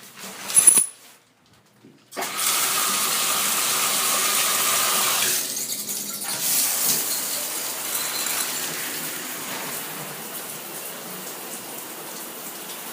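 A short click and clatter, then about two seconds in a shower is turned on and water sprays steadily, the rush turning softer from about six seconds in.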